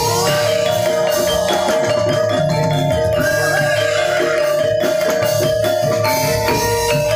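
Javanese gamelan playing jaranan dance accompaniment: metal-keyed instruments strike a fast, even run of notes over low drum beats, with one steady tone held beneath throughout.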